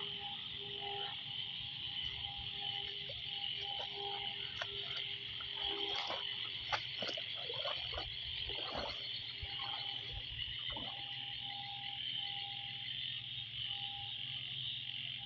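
Frog chorus after heavy rain: a constant high-pitched trilling chorus of small frogs, with a deeper, bigger frog calling in runs of pulsed notes and a flurry of louder separate croaks in the middle.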